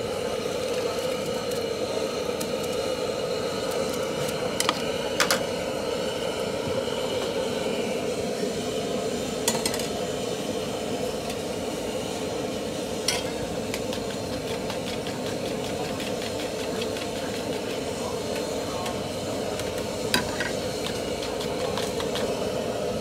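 Food frying with a steady sizzle, and a handful of sharp clinks of metal utensils against a pan now and then.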